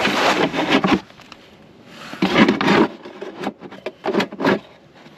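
Rubbing and scraping handling noises in three loud spells, with a run of short knocks and clicks between the second and third, made while working at a small engine as its oil drains.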